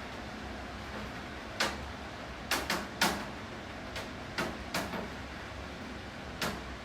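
Steady rain hiss with about nine sharp, irregularly spaced taps of drops striking a hard surface, several in quick succession around the middle.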